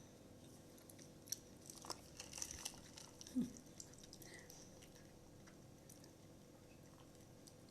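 Faint, quiet eating sounds: soft chewing with a few small clicks and ticks in the first few seconds, then near silence.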